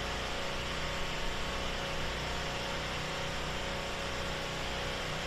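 An engine running steadily, with a constant hiss over a low hum.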